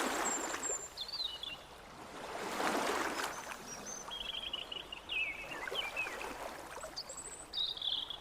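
Water running or splashing, with swells of rushing noise and short, high chirps over it.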